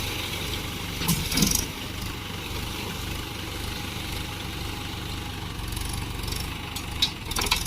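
Swaraj 843 XM tractor's diesel engine idling steadily, with a few short clatters about a second in and near the end.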